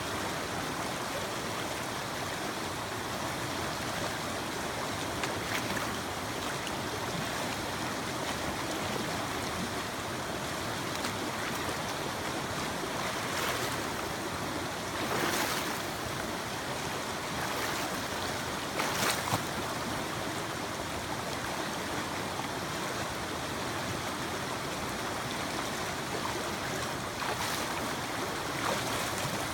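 Mountain creek water running steadily over rocks, a continuous rushing. A few brief louder rushes come around the middle.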